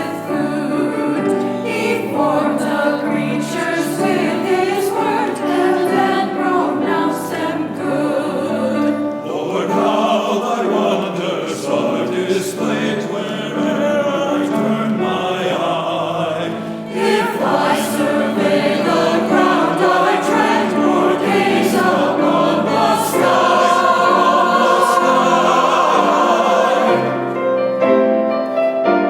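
Church choir singing a sacred anthem, many voices holding sustained notes together.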